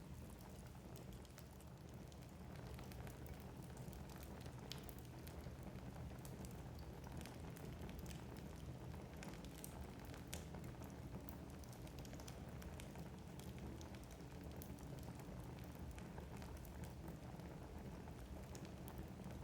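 Wood logs burning in a fireplace: a faint steady low rush of the flames with frequent small crackles and pops scattered throughout.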